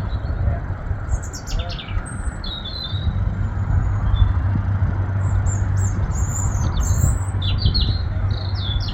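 Small birds chirping and trilling in short repeated calls, busier in the second half, over a steady low hum.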